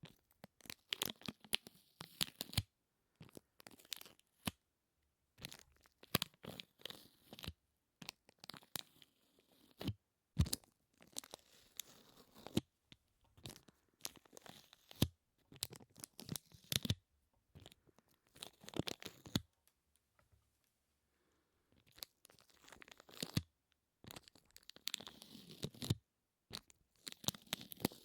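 Close-miked ASMR sticky sounds: crisp peeling, crackling clicks in clusters of a second or two, with short pauses between them and a longer pause a little after the middle.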